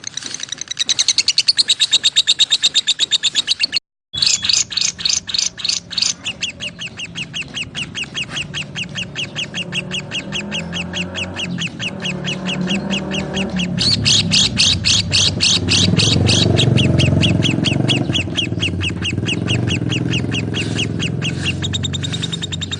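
Lovebirds chirping in a rapid, shrill, evenly repeated chatter of several calls a second, with a brief break about four seconds in.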